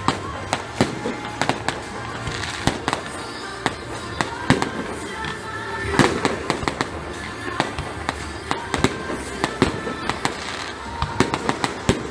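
Fireworks display: a rapid, irregular run of sharp bangs and crackles from bursting shells, loudest about six seconds in.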